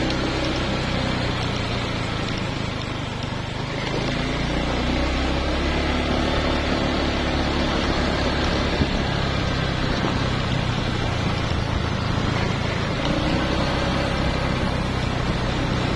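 A vehicle engine running steadily with road noise, easing off slightly about three seconds in before picking up again.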